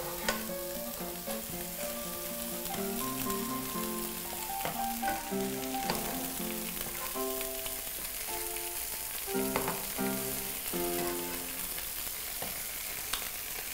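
Burger patties sizzling as they fry in a pot, and bell peppers and onions sizzling as they are stir-fried in a pan alongside, with occasional clicks of a metal spatula and a wooden spoon against the pans. Soft background music plays underneath.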